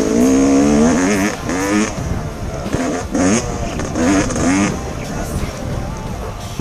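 Yamaha YZ250X two-stroke dirt bike engine revving up and down in several bursts, loudest in the first two seconds.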